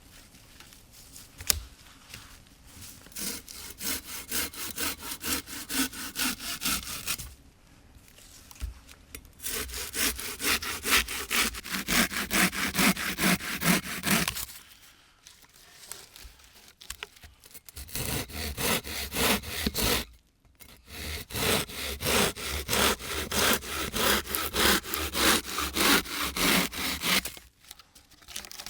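Hand saw cutting through wood in steady back-and-forth strokes, about two a second, in three long bouts with short pauses between them.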